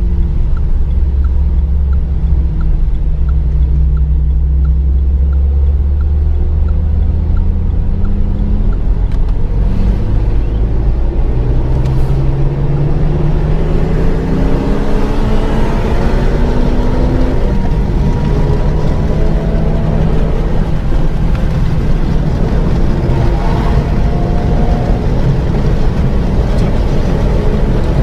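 Renault Mégane 3 RS turbocharged four-cylinder engine heard onboard at speed on track, over steady road and wind noise. Its note holds fairly steady at first, then climbs in pitch several times as the car accelerates through the gears. A light regular ticking runs through the first several seconds.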